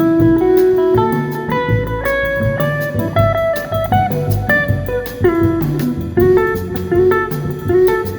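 A small band playing a blues-jazz instrumental live, with a guitar picking a melody of single notes over a moving bass line and a steady ticking beat.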